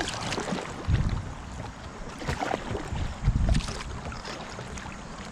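Kayak paddle strokes dipping into the water as the boat moves along, with wind buffeting the microphone about a second in and again just after three seconds.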